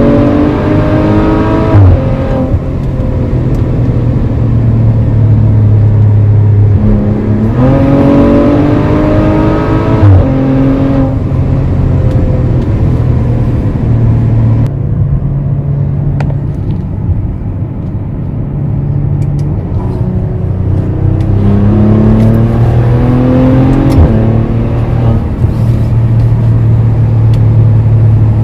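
Maserati Levante GranSport SQ4's twin-turbo V6 accelerating through the gears: the engine note climbs and drops suddenly at upshifts about two, ten and twenty-four seconds in, with steadier, quieter running in between.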